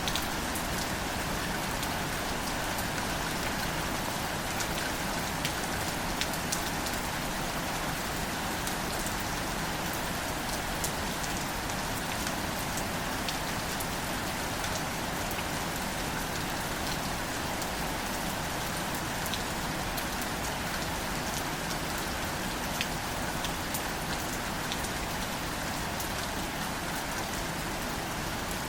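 Gentle rain falling on wildflowers: a steady even patter with scattered sharp drop ticks.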